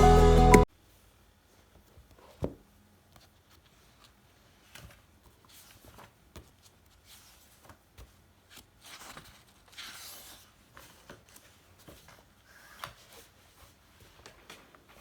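Background music cuts off suddenly within the first second. Then come faint, scattered small taps, clicks and rustles of objects being handled, with one sharper knock about two and a half seconds in and a longer rustle near ten seconds.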